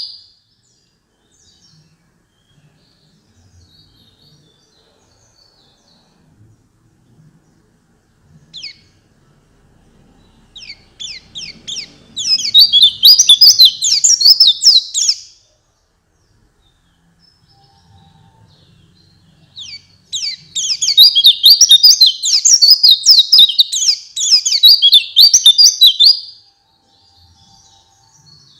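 White-eye (pleci) singing: a rapid, high twittering song in two long bouts of about five seconds each, with a short call and a few faint chips in the quieter stretches between.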